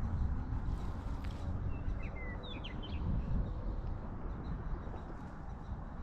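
Wind rumbling on the microphone, with a quick cluster of short, high chirps about two to three seconds in.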